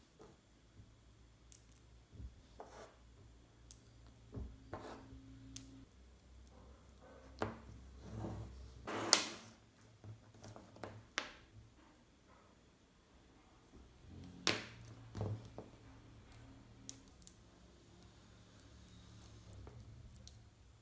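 Small magnetic balls clicking and clacking as they snap together and are placed by hand, in scattered irregular sharp clicks, with a louder, longer rattle about nine seconds in.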